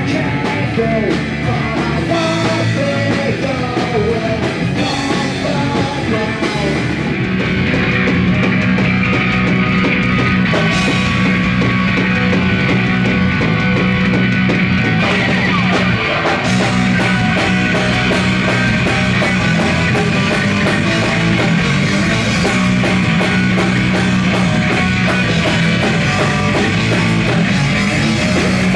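Punk rock band playing live, with electric guitars, bass and drums; the music gets louder about eight seconds in.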